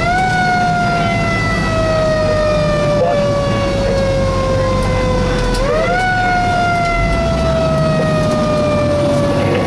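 Fire engine siren sounding from the moving truck. It climbs quickly in pitch, falls slowly for about five seconds, then climbs quickly again about six seconds in. Under it runs the steady rumble of the truck's engine.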